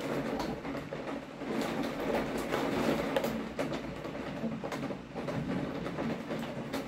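Rain falling steadily, with many sharp close taps of drops on the window glass, swelling a little about two to three seconds in.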